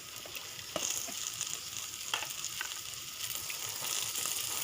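Chopped onions frying in hot oil in a kadai: a steady sizzle with scattered clicks of a spatula stirring. The sizzle grows louder about a second in and again near the end.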